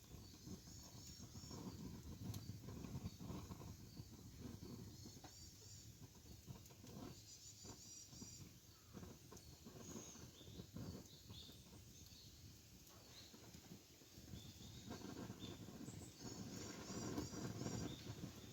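Campfire burning with faint crackles and small pops, while a bird chirps in short high bursts several times in the background.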